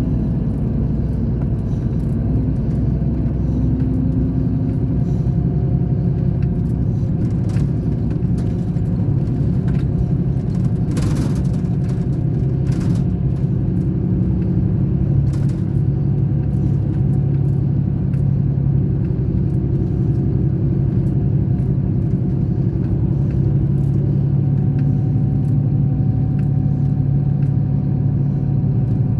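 Scania K420 bus diesel engine running steadily, a continuous deep rumble with little change in pitch. A few short clicks or rattles break in near the middle.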